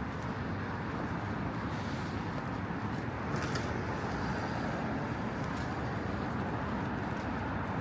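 Steady road traffic noise on a busy city street, cars passing in a continuous wash, with a faint high-pitched whine for a few seconds after the start.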